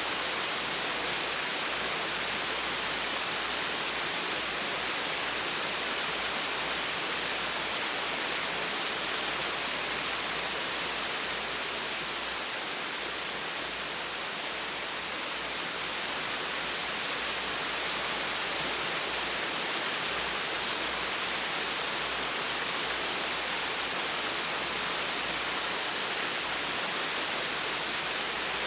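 Small waterfall pouring steadily: an even rushing hiss of falling water with no change in level.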